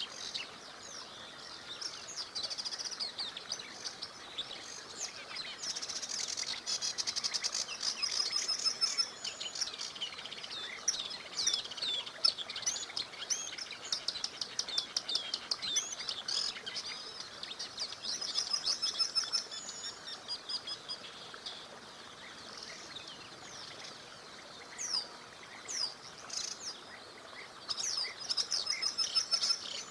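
Several songbirds singing, with fast trills and many short chirps, over a faint steady hiss of flowing water; the singing thins out for a few seconds after the middle.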